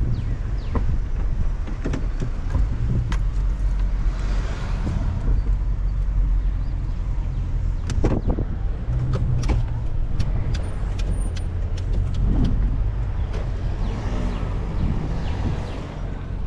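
Car on the move: a steady low rumble of engine and road, with scattered short clicks and light knocks.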